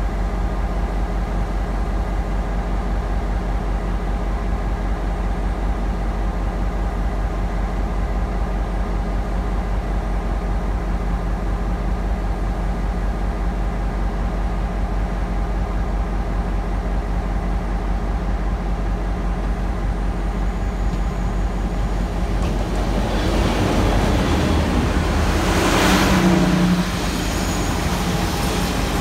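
Chu-Kuang express train pulling into a station behind a diesel locomotive: a steady low engine hum that grows louder as it nears. It is loudest, with a rushing noise, as the locomotive passes close by near the end, then the coaches roll past.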